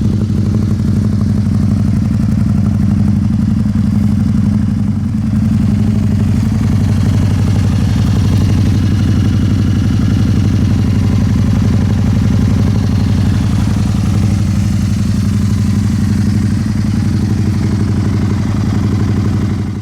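Can-Am Spyder RS-S's V-twin engine idling steadily through an aftermarket Yoshimura exhaust, a constant low note with no revving.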